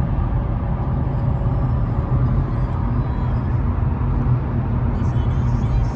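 Steady low rumble of a car driving along the road, engine and road noise held at an even level.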